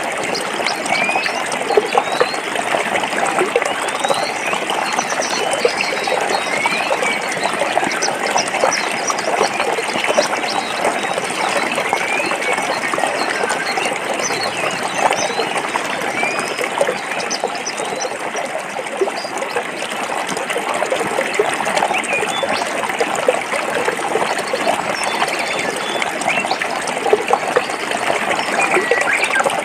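Forest stream flowing over rocks: a steady rush of water with constant small splashes and burbles.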